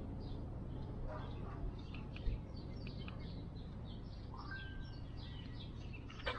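Birds chirping and twittering in many short calls, with one brief whistled note about four and a half seconds in, over a steady low background rumble.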